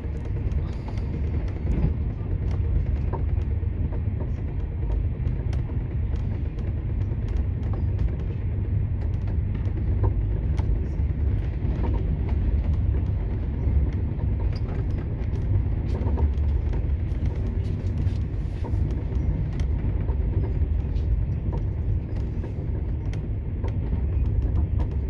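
Steady low rumble of a moving vehicle, with scattered light clicks.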